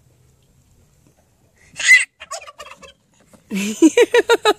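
Turkey gobbling: a shorter call about two seconds in, then a full rapid, rattling gobble starting about three and a half seconds in.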